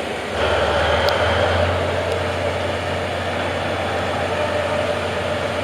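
DF200-7000 diesel-electric locomotive's engine running steadily under load as it backs the train, with a deep hum that picks up about half a second in.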